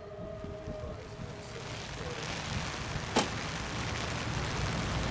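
The Federal Signal Modulator siren's high-low tone dying away just after cutoff, fading out within the first second. A steady rushing noise follows and slowly grows, with one sharp click about three seconds in.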